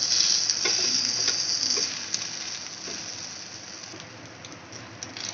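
Onion dosa sizzling on a hot tawa just after being flipped: a loud hiss that dies down after about two seconds. A few light taps of a steel spatula sound over it.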